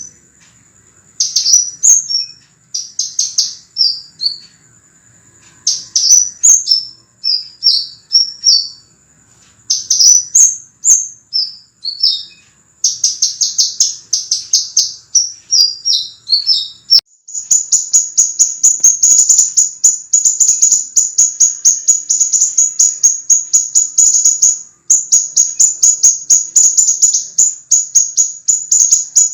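Sepah raja (scarlet minivet) song: bursts of high, sharp chirping notes in short phrases with brief pauses between them, turning about halfway through into a rapid, almost unbroken run of chirps. A faint steady high tone runs underneath.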